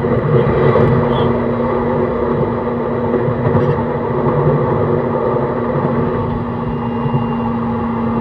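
Running noise inside a JR East E131 series 600 electric multiple unit with Hitachi hybrid SiC traction equipment: a steady rumble of wheels on rail with a constant low hum. A thin high tone joins about seven seconds in.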